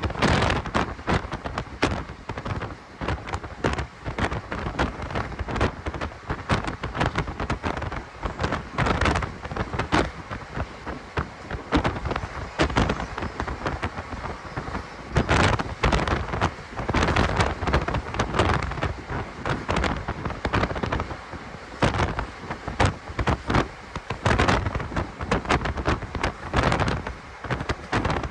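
Passenger train running, heard from aboard a coach: a continuous rumble with dense, irregular knocks and rattles throughout.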